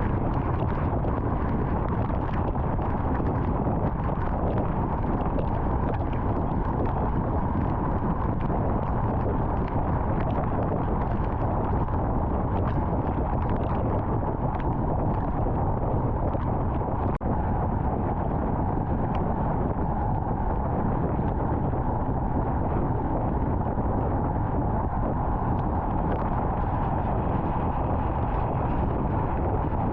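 Steady rumble of a car driving at highway speed: tyre and wind noise with a deep low end, unchanging throughout.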